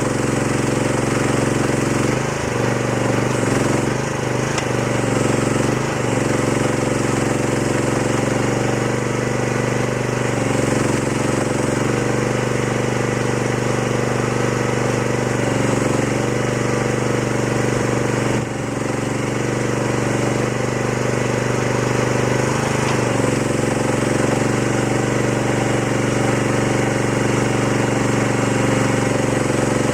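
Small diesel engine of a Chinese mini excavator running steadily with a clattering note, its pitch dipping and rising now and then as the machine is worked.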